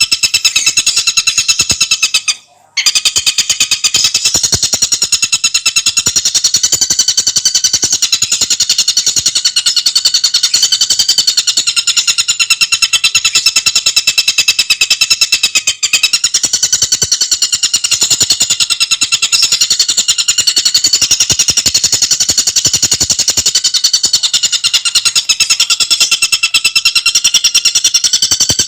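Tengkek buto bird singing a fast, continuous high-pitched rattling trill of many notes a second, with one short break about two and a half seconds in.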